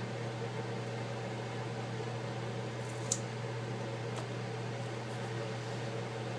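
Steady low hum with an even hiss, with a light click about three seconds in and a fainter one about a second later.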